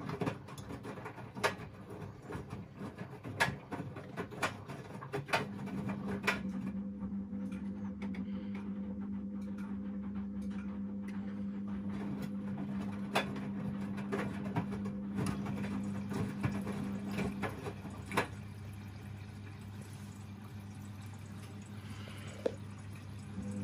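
Washing machine running: water and laundry sloshing in the drum with scattered splashes, and a steady hum that starts about five seconds in and stops about twelve seconds later.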